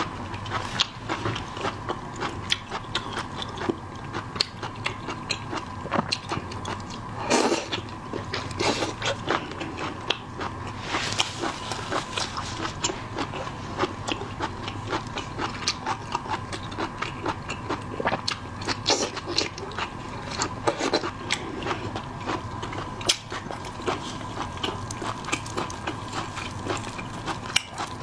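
Close-miked eating sounds: a person biting and chewing food, with frequent irregular crisp clicks and wet smacks.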